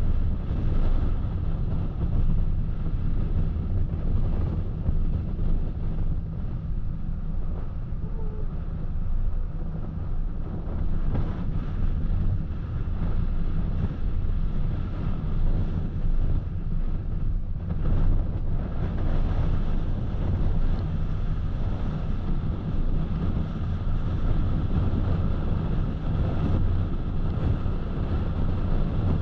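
A car driving at road speed, heard from inside the cabin: a steady low engine hum with tyre and road noise over it.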